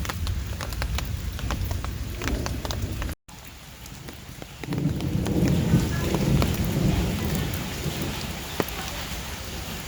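Heavy rain falling, a steady hiss with many sharp drops striking close by. The sound drops out briefly about three seconds in, and a low rolling rumble of thunder comes in about five seconds in and slowly fades.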